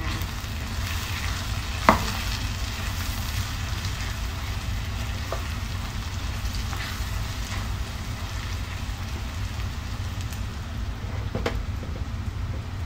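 A spicy mixture sizzling as it fries in oil in a pan while being stirred with a spatula, as a steady hiss over a low hum. There is a sharp knock about two seconds in and a fainter one near the end.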